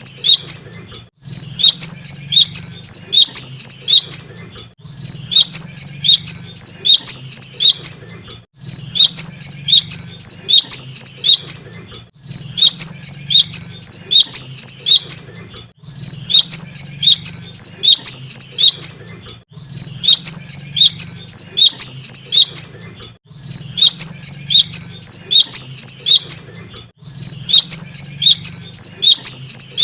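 Cinereous tit (gelatik batu) singing in repeated phrases of rapid, high, chirping notes, each phrase about three and a half seconds long with a short pause between, repeating very evenly.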